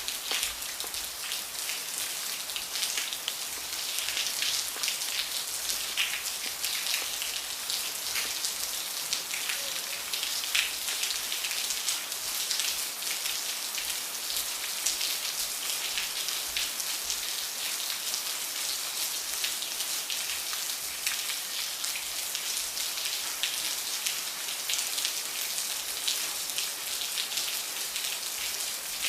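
Steady rain falling and pattering on a surface, a dense hiss of many drops.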